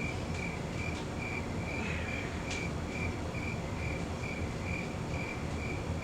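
A cricket chirping steadily, about two short chirps a second at one high pitch, over a low background noise.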